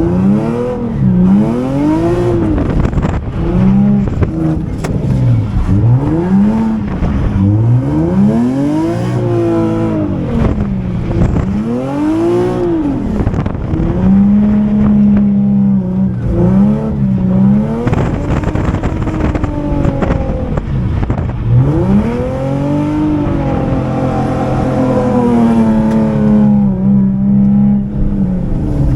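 Drift car engine revving hard, rising and falling in pitch over and over as the throttle is worked, and held steady at high revs for a few seconds at a time while the car drifts.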